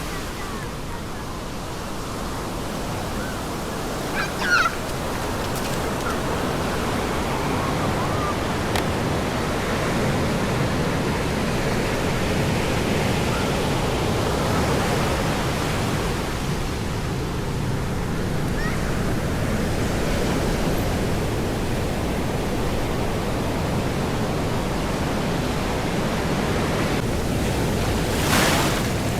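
Ocean surf breaking on a beach: a steady, continuous wash of waves. A brief high chirp sounds about four seconds in.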